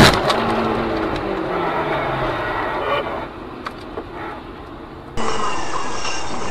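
A single loud bang, like a car collision recorded by a dash cam, followed by vehicle noise with a falling engine tone that dies down after about three seconds. About five seconds in, steady road noise takes over abruptly.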